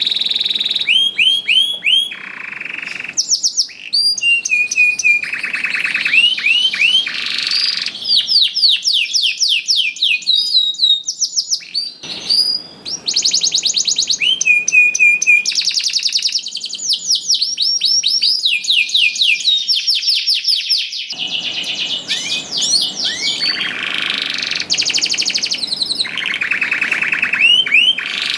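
Domestic canary singing continuously and loudly, a long song of rapid trills and quickly repeated rising and falling whistled notes with hardly a pause.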